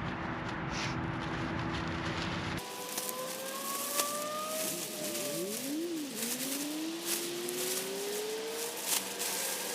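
A steady rushing noise with a low hum cuts off abruptly about two and a half seconds in. Then a car engine revs, its pitch falling and rising again before a long steady climb.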